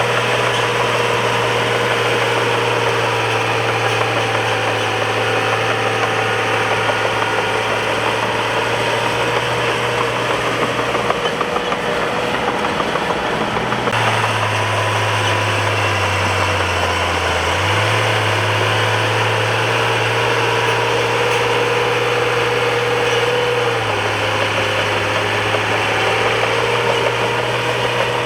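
Bulldozer diesel engine running steadily at work, its pitch shifting a few times in the middle as the revs change.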